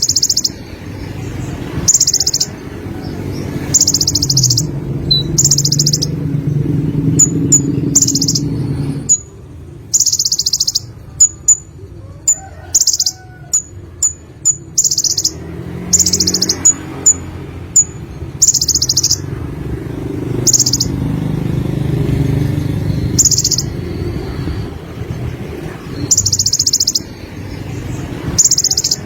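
Konin sunbird singing: high-pitched, rapid buzzy trills about half a second long, repeated every second or two, with a run of short sharp chirps between them in the middle. A low rumble runs underneath.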